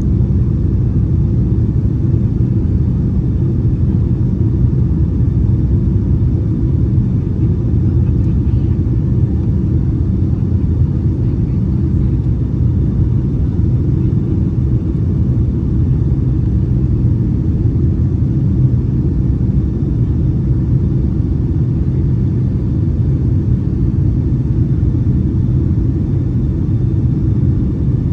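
Steady low rumble inside the cabin of a Boeing 757-200 airliner, from its Pratt & Whitney PW2037 engines and the airflow, even and unchanging throughout.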